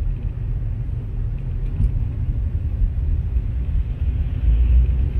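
Low, steady rumble of a car in motion, heaviest in the bass.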